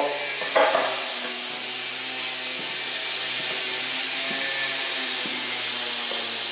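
Concrete cutting saw running steadily, cutting the concrete kerb and footpath: an even grinding noise with a faint low hum underneath.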